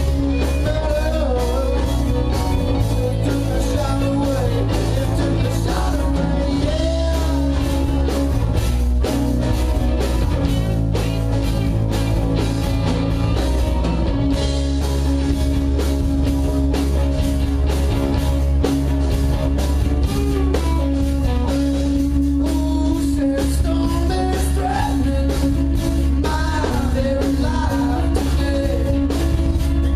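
Live rock band playing with a singer over electric guitar, bass and a steady drum beat.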